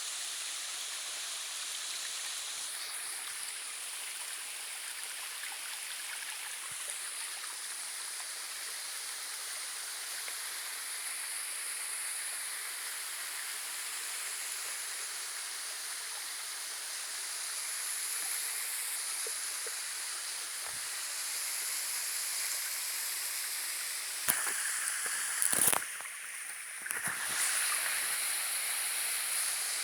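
Rushing water of a stream by the waterfalls, a steady hiss. Near the end come a few sharp knocks and a brief dip in the sound.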